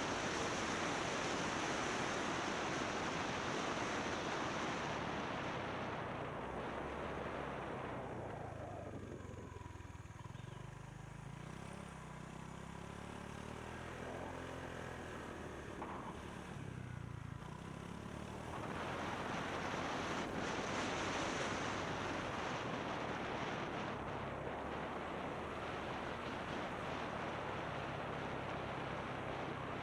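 Wind rushing over the microphone of a camera on a moving motorbike, with the bike's engine underneath. For about ten seconds in the middle the wind eases and the engine note comes through, rising and falling; then the wind rushes in again.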